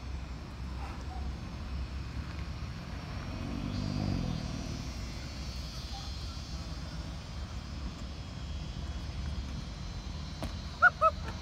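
Hyundai Veloster engine running at low revs across loose dirt, with a brief rev that rises and falls about four seconds in. A few sharp knocks come near the end.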